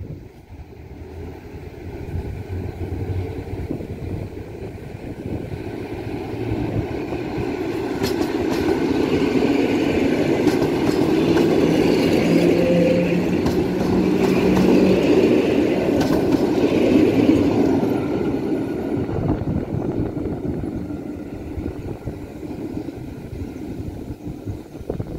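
EN57 electric multiple unit passing along a station platform: its running noise on the rails grows as it approaches, is loudest about halfway through, and fades as it moves away.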